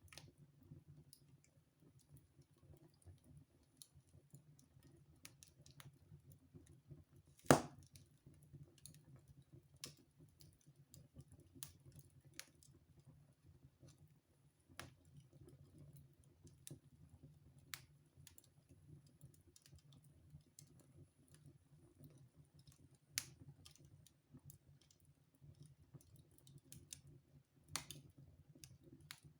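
Wood fire in a fireplace crackling quietly, with scattered sharp snaps and one loud pop about a third of the way through.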